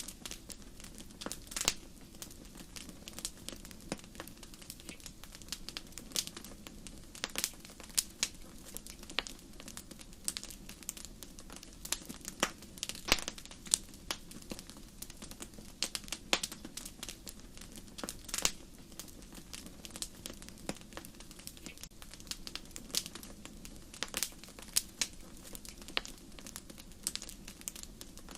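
Wood fire crackling, with sharp irregular pops and snaps several times a second over a faint, steady low rush.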